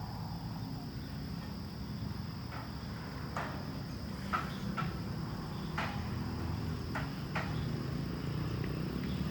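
Outdoor ambience: a steady high insect drone over a low rumble, with about seven short, sharp ticks scattered through the middle.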